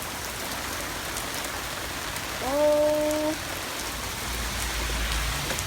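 Heavy rain pouring down steadily, an even hiss of rain hitting surfaces. A low rumble comes in for about a second near the end.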